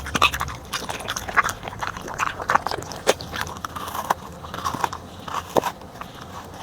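A corgi biting and chewing its food: irregular wet crunches, several a second, thinning out near the end.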